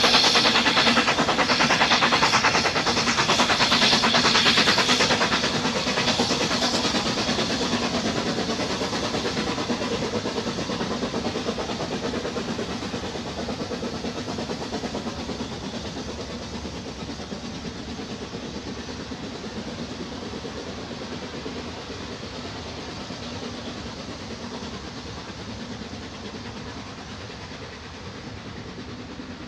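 Peckett 0-4-0 tank steam locomotive working uphill, its rapid exhaust beats and running gear growing steadily fainter as it draws away.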